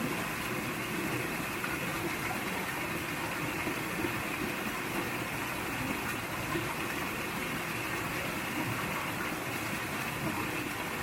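Mountain valley stream running over rocks, a steady rush of water with no break or change.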